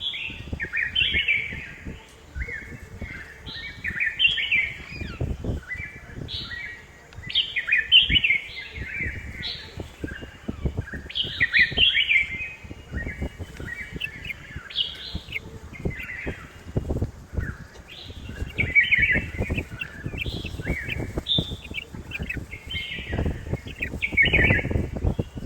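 Red-whiskered bulbul calling again and again in short, bright chirping phrases of a few notes each, one after another. A low rumble on the microphone near the end.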